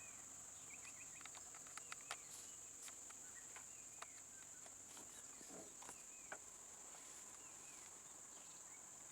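Faint, steady high-pitched insect drone, with a few small chirps and scattered faint clicks.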